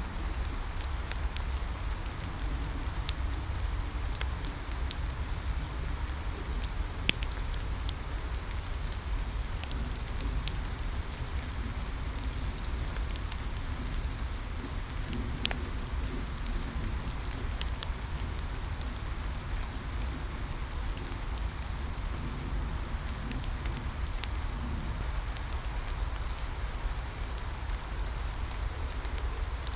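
Steady rain falling, with a low rumble, and a bonfire crackling with occasional sharp pops.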